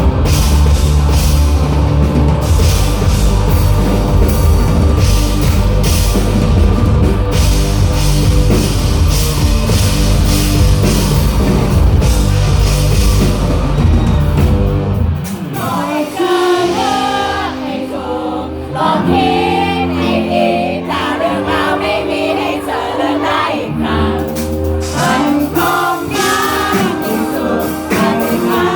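Live rock band playing loudly with drums, bass and singing. About halfway through, the drums and bass drop out, leaving singing over lighter accompaniment.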